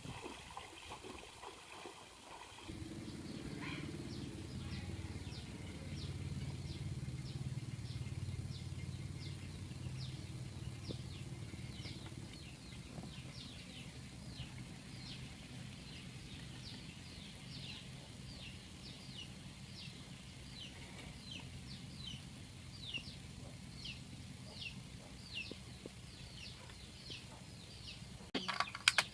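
A bird calling over and over in short falling chirps, about two a second, over a low steady hum like a distant engine that starts a few seconds in.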